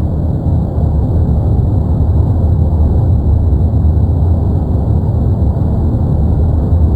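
Erupting volcano giving off a loud, steady deep rumble with no breaks.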